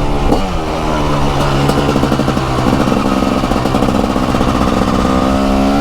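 2021 TM SMR 300 supermoto's single-cylinder two-stroke engine under way: a quick gear change just after the start, a fairly steady pitch through the middle, then revving up under acceleration near the end.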